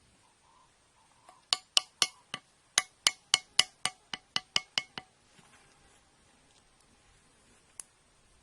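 A quick run of about fourteen sharp, slightly ringing clinks or taps, roughly four a second, then they stop; one faint click follows near the end.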